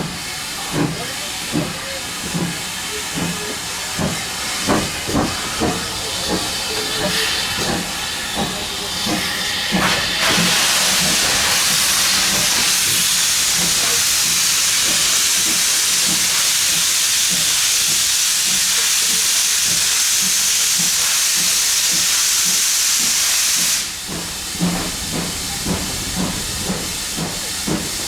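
Steam locomotive 7820 Dinmore Manor, a two-cylinder GWR Manor-class 4-6-0, working with its exhaust beating about twice a second. About ten seconds in, a loud, steady hiss of escaping steam drowns the beats for some fourteen seconds. The hiss cuts off suddenly and the exhaust beats carry on.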